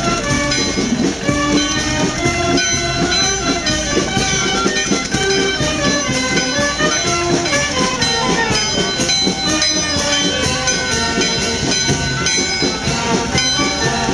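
Town wind band playing, many pitched instruments together over a regular drum beat.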